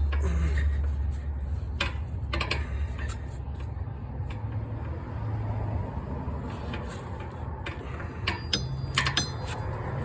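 Scattered sharp clicks and light metallic knocks from hand work with tools and parts at the starter, a few around two seconds in and a cluster near the end, over a steady low hum.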